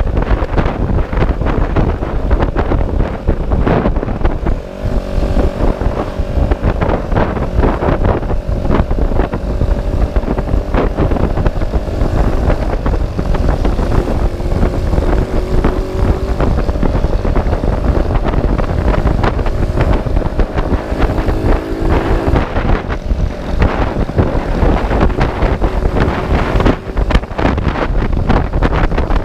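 Heavy wind buffeting on the microphone of a moving motorcycle, with a faint steady engine tone heard under the wind from about five seconds in until about twenty-two seconds.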